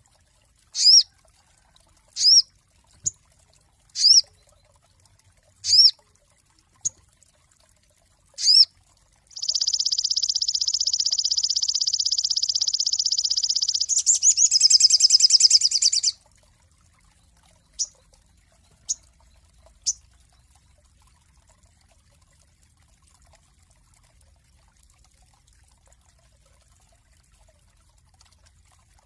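Sogon songbird singing: short sweeping whistle notes about every second and a half, then about nine seconds in a long rapid trill of about five seconds that turns into a harsher, buzzier trill for two seconds more, followed by three brief chirps.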